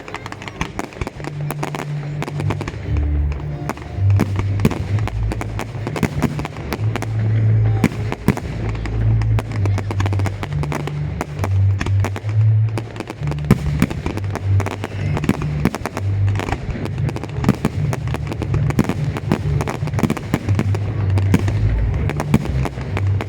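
Fireworks display going off: dense crackling with repeated sharp bangs throughout, over music with a heavy bass line.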